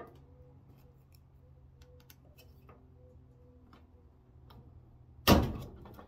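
Light clicks and scrapes of a putty knife working the spring clip under the metal top panel of an LG DLGX7801VE dryer, then about five seconds in a single loud sharp snap as the clip lets go and the top panel pops up.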